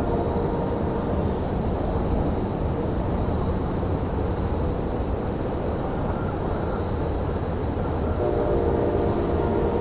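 Railyard ambience: a steady low rumble with a constant thin high whine over it, and a faint cluster of held tones joining about eight seconds in.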